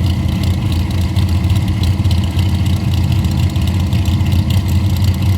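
Drag race car engine idling loudly and steadily, a low, even engine note with no revving.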